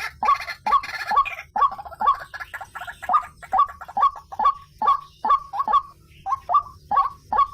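White-breasted waterhen (ruak-ruak) calling: a long run of short notes, about two or three a second, with a brief break about six seconds in.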